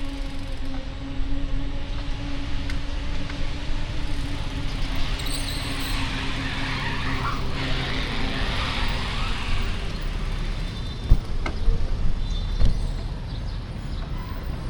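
Street traffic heard from a moving bicycle: a steady engine drone, a vehicle rushing past about halfway through, and a few sharp knocks a little later.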